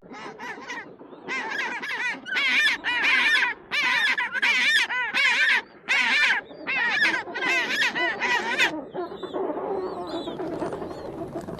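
Domestic fowl calling over and over in a fast string of loud, arched calls for about eight seconds, then quieter, lower calling near the end.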